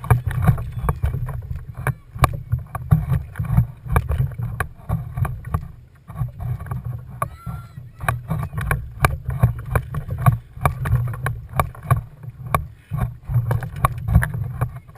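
Water splashing and knocking against a kayak's hull in a quick irregular patter of short sharp hits, over a steady low rumble.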